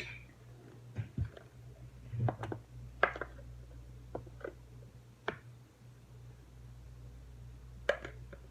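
Light clicks and knocks of objects being handled, about nine of them scattered irregularly, the loudest about three seconds in, over a steady low hum.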